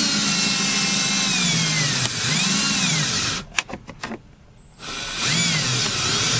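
Power drill driving a Rolladeck windshield cutout winder, pulling the cutting line through the glass's urethane. The motor whine rises and dips in pitch with the changing speed and load, stops about three and a half seconds in, and starts again about five seconds in.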